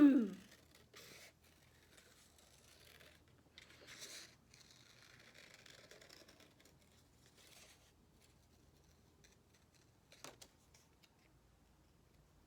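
Scissors cutting white scrap paper, faint intermittent snipping and paper scraping, with a short sharp click about ten seconds in.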